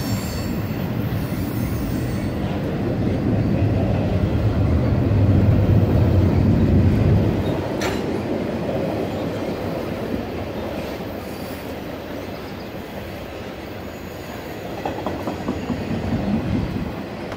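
Cars of an intermodal freight train, carrying double-stacked containers and truck trailers, rolling past: a steady rumble of steel wheels on rail that swells about five to seven seconds in and then eases off, with a single sharp click about eight seconds in.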